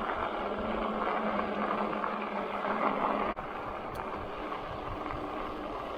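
Steady rolling noise of an electric bike riding along a trail: tyre and wind noise on the camera microphone, with a faint steady hum underneath. A sharp click a little past halfway, after which the noise is slightly quieter.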